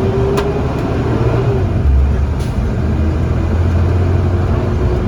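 Blue Bird Vision school bus riding along, heard from inside the cabin: a deep, steady engine and road rumble that grows a little louder about two seconds in, with a couple of faint clicks.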